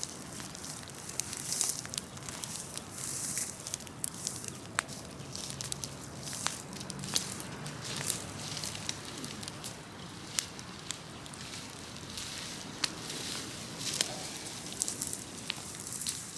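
Large open bonfire of cut trees and branches burning, crackling steadily with many sharp pops and snaps.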